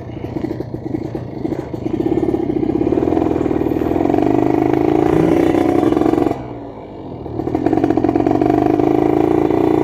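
Kawasaki Ninja 150 RR two-stroke single-cylinder engine, with a 34 mm carburettor and ported cylinder, under way and accelerating to a steady high rev. About six seconds in the sound drops away for about a second, then builds back up.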